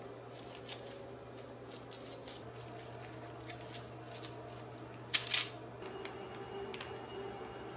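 Scattered small clicks and taps over a steady low hum, with a louder double click about five seconds in.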